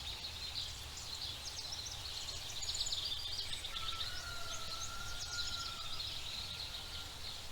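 Forest ambience: small birds chirping and twittering continuously over a steady low rumble. A single long, thin whistled note is held for about three seconds in the middle.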